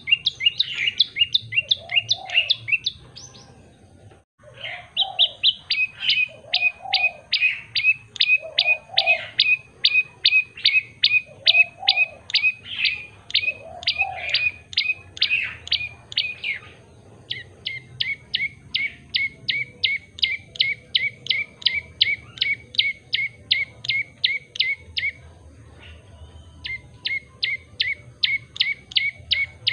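A tailorbird (prenjak lumut) singing long runs of sharp, evenly repeated chirping notes, a few each second. It breaks off briefly a few times and starts again.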